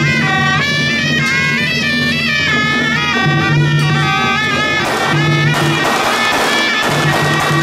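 Taiwanese temple procession music: a loud suona reed-horn melody, with clashing cymbals joining from about five seconds in.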